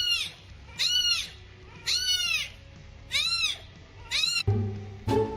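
A domestic cat meowing repeatedly, five short high-pitched meows that rise and fall, about one a second. Music starts near the end.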